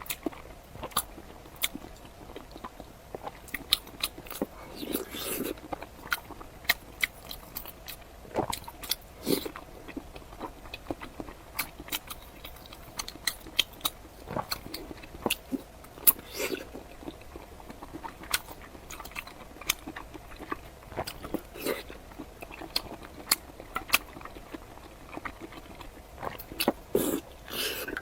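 Close-miked eating sounds of a person chewing century egg: wet chewing and lip smacks with many sharp mouth clicks, irregularly spaced.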